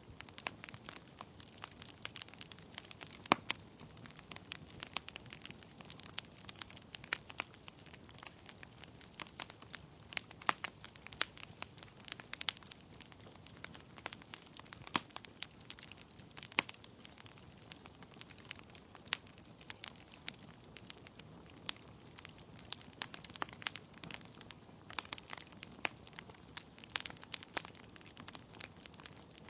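Wood fire burning in a fireplace: logs crackling and popping with irregular sharp snaps over a soft steady hiss of the flames.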